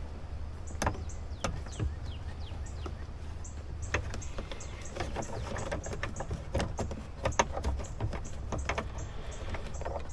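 Scattered light clicks and knocks of hands working on a Jeep's plastic trim, screws and wiring, over a steady low hum.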